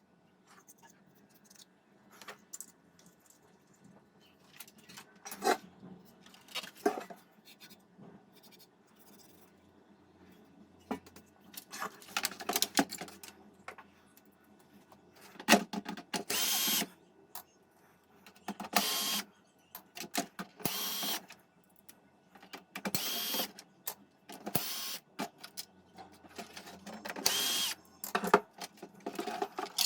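A small power tool run in short bursts of about a second each, several times in the second half, with clicks and knocks of handling parts between them.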